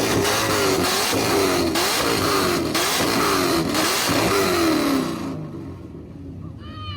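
Car engine revved hard again and again, its pitch climbing and falling back about once a second, with sharp cracks between some of the revs. It cuts off about five seconds in.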